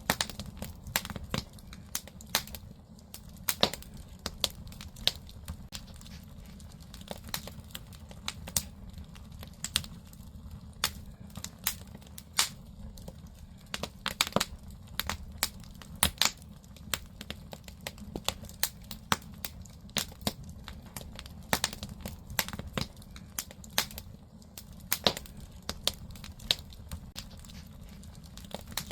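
Firewood burning in a traditional Korean agungi (wood-fired firebox), crackling with irregular sharp pops over a steady low rumble.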